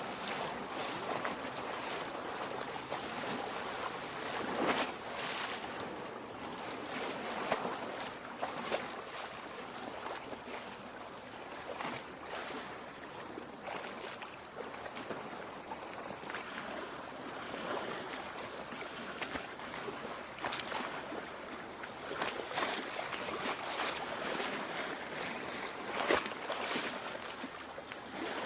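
Small waves lapping against a lake shore: a continuous wash of moving water with frequent small splashes and slaps.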